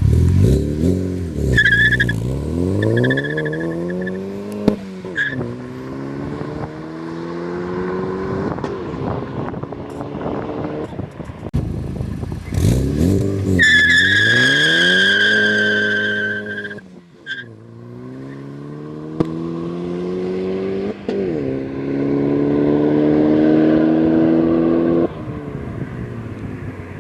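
Turbocharged 2009 Chevrolet Cobalt SS with an aftermarket exhaust accelerating hard through the gears, its exhaust note climbing in pitch and dropping at each shift. A high squeal comes twice, briefly near the start and for about three seconds in the middle, with a couple of sharp pops.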